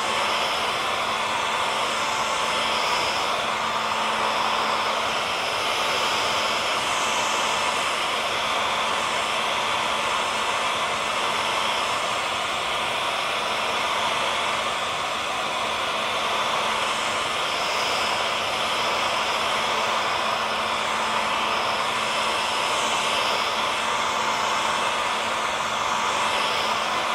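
Hair dryer blowing steadily, a constant rushing whoosh of air with a low motor hum underneath.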